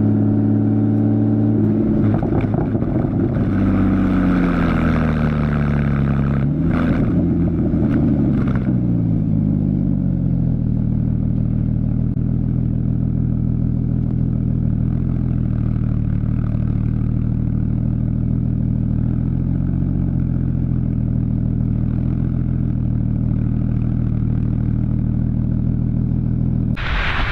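2015 Porsche Boxster's 2.7-litre flat-six running through a Fabspeed Maxflo exhaust, its note falling twice as the revs drop, with two brief sharp sounds at about seven and eight and a half seconds in. It then settles into a steady, lower drone at cruise, and a short loud rush of noise comes right at the end.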